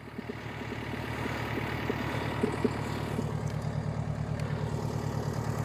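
Volvo tracked skid steer's diesel engine coming up in speed over about the first second, then running steadily, with a few light knocks partway through.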